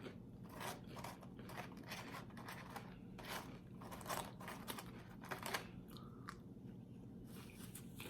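A person chewing crunchy tortilla chips close to the microphone: faint, irregular crunches, one or two a second.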